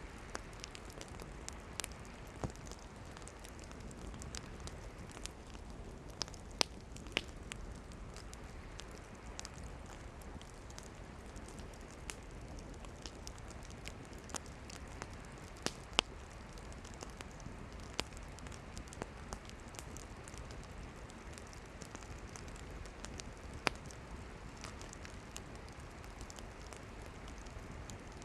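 Campfire of burning firewood crackling, with an even hiss of burning under scattered sharp pops and snaps, a few of them louder.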